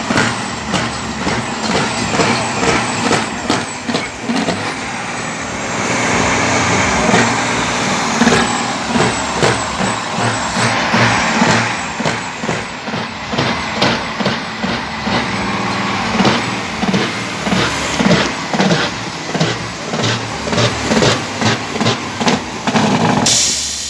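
Heavy diesel truck engine revving hard through its exhaust in quick, repeated loud pulses. A short burst of air hiss comes near the end.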